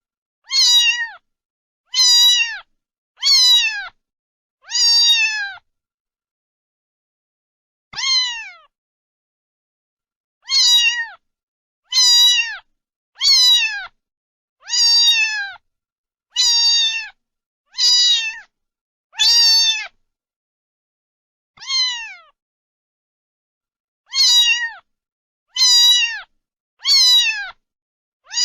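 A cat meowing over and over, about sixteen short, high meows, each dropping in pitch at the end, with brief silences between them and a couple of longer pauses.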